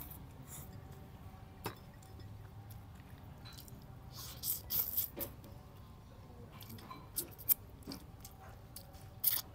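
People chewing and crunching fried chicken and rice, with scattered short crackly bites and a few sharp clicks of a spoon and fork against plates.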